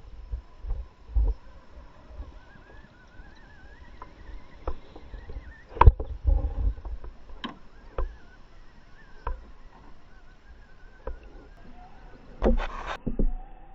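Electric motor of an Axial SCX10 scale RC truck whining faintly, wavering in pitch as it crawls, with scattered sharp knocks of the truck against rock and a brief rush of noise near the end.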